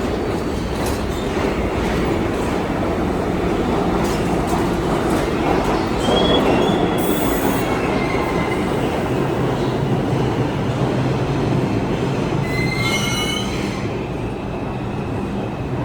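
R62A subway train running on the rails with a steady rumble, its wheels squealing briefly about six seconds in and again, in several high tones at once, around thirteen seconds.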